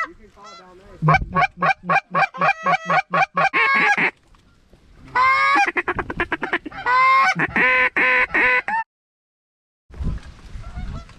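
Geese honking: a rapid, evenly spaced string of honks, then two more runs of honking. The sound cuts off abruptly near the end.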